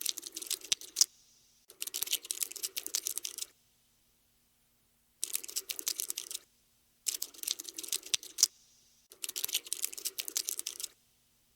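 Cockroach scuttling sound effect: bursts of rapid, dry clicking and scratching, each lasting a second or two, five times with short silences between.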